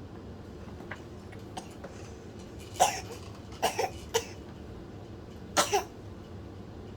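A baby coughing: about six short, sharp coughs in two clusters, around three to four seconds in and again near five and a half seconds.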